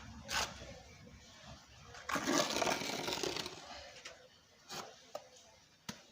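Trowel scraping and smoothing wet cement mortar on a brick wall: a short scrape just after the start, a longer scrape about two seconds in, then a few light clicks of the tool.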